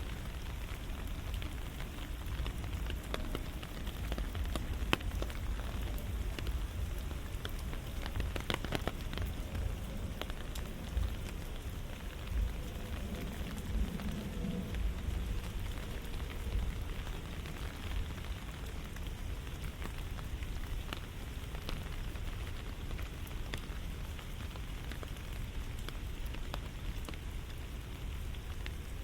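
Steady rain falling, with many small sharp drop ticks over an even hiss and a low rumble underneath.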